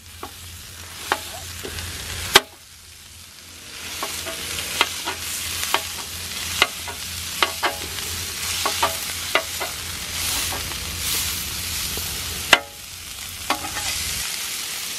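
Sausage and eggs frying on a grill: a steady sizzle with repeated sharp clicks and knocks of a cooking utensil against the cooking surface.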